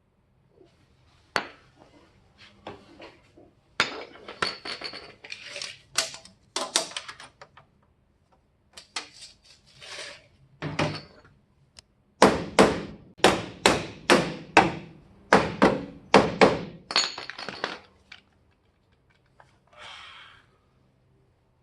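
Hammer blows: scattered knocks and clanks, then a quick run of about fifteen strikes at roughly three a second before it stops.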